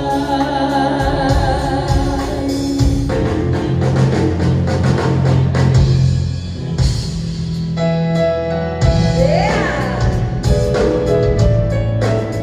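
Live band music: a held sung note with vibrato runs for about the first three seconds, then the band carries on instrumentally with drums and bright melodic lines, including a rising sweep near the end.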